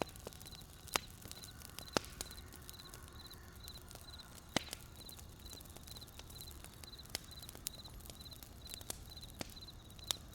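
Wood fire crackling with sharp, irregular pops, the loudest about one, two and four and a half seconds in. Crickets chirp steadily behind it, about two short trilled chirps a second.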